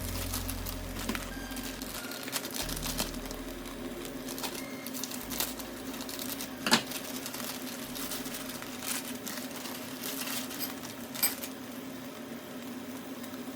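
Kitchen handling sounds: scattered small clicks, taps and rustles, with a sharper click about a third of the way through and another near the end, over a steady low hum.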